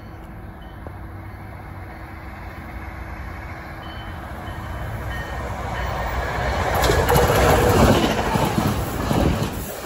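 Electric multiple-unit commuter train, NJ Transit, approaching and passing close by on the rails. Its rumble swells steadily and is loudest as the cars roll past, about seven to eight seconds in.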